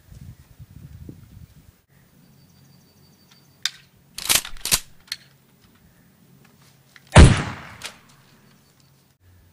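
Gunshot sound effects: a quick group of two or three shots about four seconds in, then one louder single shot with a fading tail about three seconds later.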